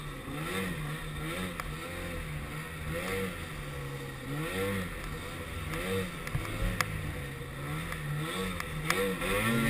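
Snowmobile engine running, its pitch rising and falling about once a second as the revs change. It starts to rev up louder near the end.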